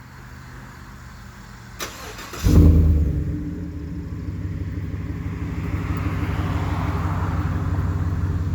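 Chevy Silverado pickup cold start through an MVP Auto cat-back dual exhaust: the starter cranks briefly, the engine catches about two and a half seconds in with a loud flare of revs, then drops to a steady idle. The idle is nice and smooth with no rattle, since the exhaust hanger that touched the frame has been cut off.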